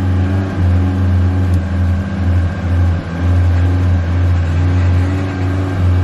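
Honda Civic's four-cylinder engine held at a steady raised rev under the accelerator. The note dips briefly about three times as the pedal is pumped.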